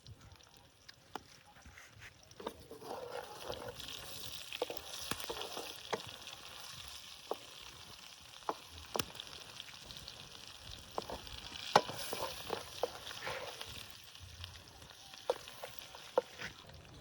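Eggs frying in hot lamb tail fat in a pan, a steady sizzle that builds up about three seconds in and eases near the end. Many sharp clicks and knocks of a utensil against the pan are scattered through it.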